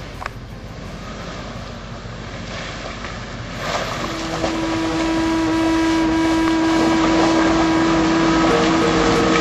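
Land Rover engine revving up about four seconds in, then held at high, steady revs.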